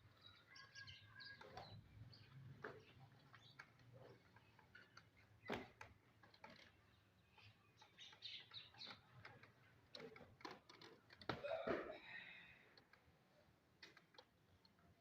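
Quiet ambience with scattered faint bird chirps and a few sharp knocks, the loudest about eleven and a half seconds in.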